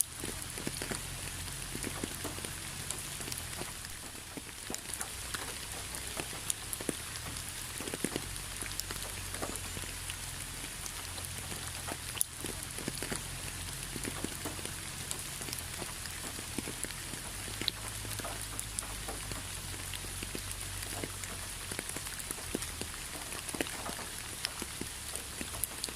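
Steady rain with individual raindrops landing as sharp ticks scattered throughout.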